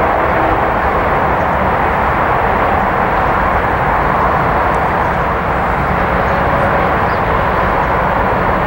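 Diesel freight locomotive approaching at the head of a train of autorack cars: a steady, loud rumble of engine and rolling wheels. The horn trails off right at the start.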